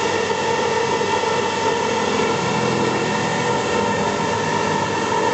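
4-axis CNC milling machine running with a steady, even hum and several held tones.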